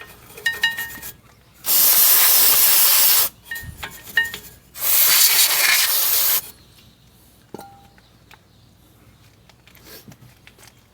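Aerosol brake cleaner sprayed in two long bursts of about a second and a half each, on the front brake hardware. Light metal clinks come between the bursts, then a few soft knocks.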